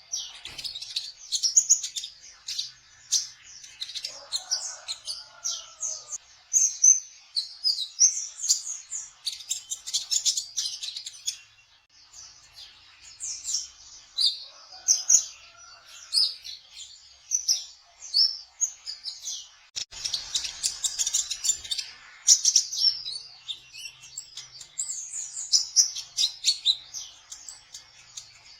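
Sunbird ('kolibri ninja trotol') singing: rapid, high-pitched chirps and twittering trills, with only short breaks, run together in long excited phrases.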